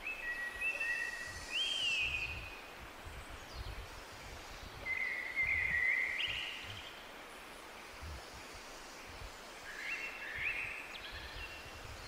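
A bird singing three short phrases of high, level notes that step up in pitch: one at the start, one around the middle, one near the end. Under it is a steady hiss of outdoor background noise with irregular low rumbles.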